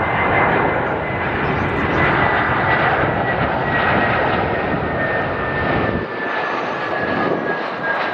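Jet airliner's engines passing close by: a steady loud rushing noise with a high whine that slowly falls in pitch as the aircraft goes past.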